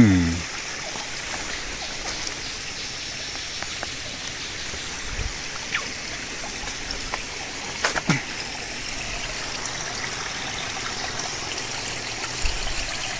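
Steady rushing noise of flowing water, with a few light snaps or knocks about six and eight seconds in.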